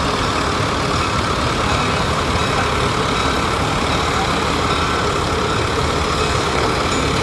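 Antique machinery in a parade running steadily, a continuous engine rumble with no pause.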